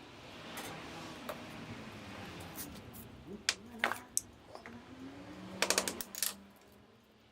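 Scattered light clicks and taps of small hard objects being handled, with a quick rattle of several clicks a little before six seconds in.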